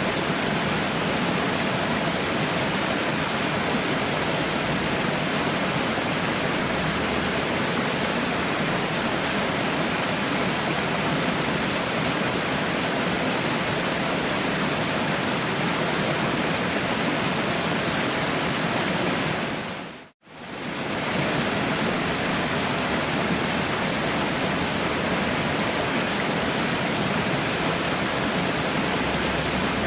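Waterfall rushing steadily, an even wash of falling water. About two-thirds of the way through it fades out to near silence for a moment and comes straight back.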